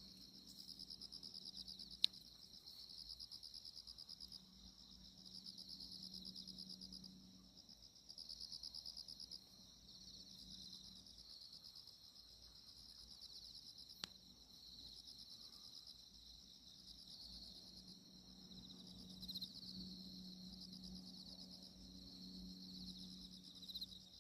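Insects, likely crickets, trilling faintly in long pulsing trains, with a faint low hum coming and going. Two sharp clicks are heard, about two seconds in and again about fourteen seconds in.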